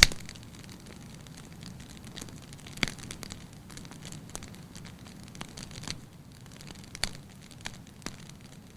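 Fire burning in a fireplace, crackling with irregular sharp pops over a low steady rumble. The loudest pop comes right at the start, with others about three and seven seconds in.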